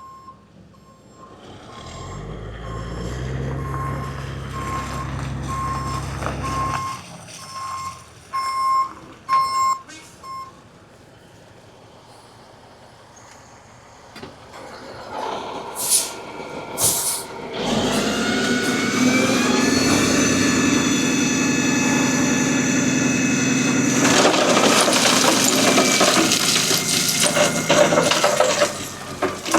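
A backup alarm beeps about once a second for the first ten seconds over a diesel engine running low. Then a diesel engine, the Kubota KX040-4 mini excavator's, revs up about halfway through and runs steadily at high speed to work the hydraulics.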